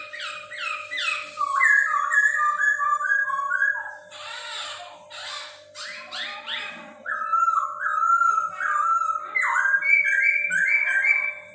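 Chinese hwamei (poksay Hongkong) singing: loud, varied whistled phrases made of quickly repeated falling notes and slurred whistles, with a harsh rasping note about four seconds in. A faint steady hum runs underneath.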